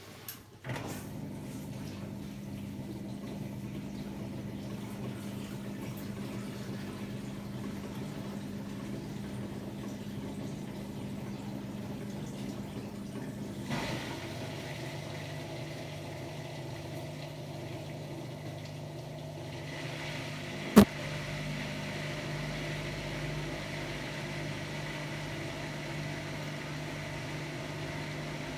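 Hotpoint-Ariston AQD972F washer-dryer running with a steady hum. The hum shifts to a lower tone about halfway through, and there is a single sharp click about two-thirds of the way in.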